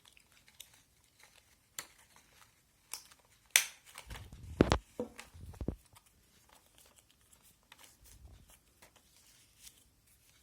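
Chart paper being handled and crinkled during a paper craft, with a few sharp clicks and a louder cluster of knocks and a thump about four to six seconds in.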